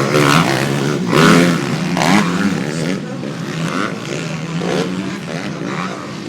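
Several motocross bikes running at race pace, their engines revving up and down over one another, with the loudest surge about a second in.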